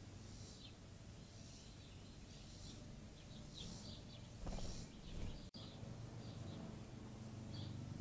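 Small birds chirping, short high chips scattered throughout, over a steady low hum. A brief louder low rustle or bump comes about four and a half seconds in, and the sound drops out for an instant just after.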